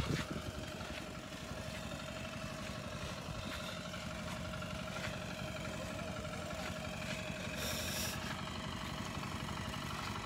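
A steady low rumble with a faint, even hum above it, mechanical in kind; a short hiss rises about eight seconds in.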